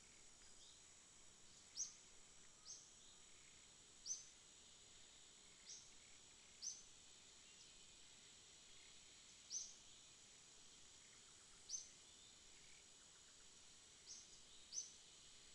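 Faint night ambience: a steady high-pitched insect drone, with short high chirps standing out every second or few, about nine of them.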